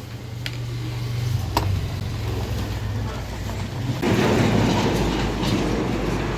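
A steady low mechanical hum and rumble that slowly swells, with a couple of light clicks in the first two seconds; about four seconds in a louder rushing noise joins it, then both cut off sharply.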